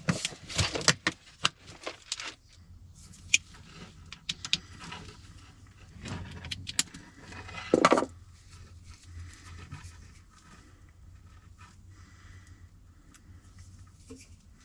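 Small clicks, taps and rattles of electrical wire connectors and small parts being handled and fitted, busiest in the first couple of seconds and then scattered, over a faint steady low hum.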